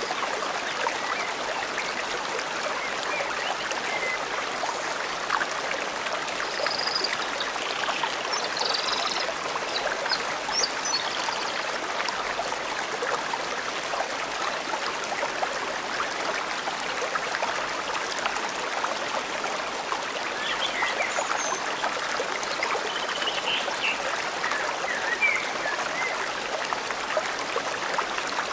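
Forest stream flowing steadily. A few faint bird chirps come through about a quarter of the way in and again past two-thirds.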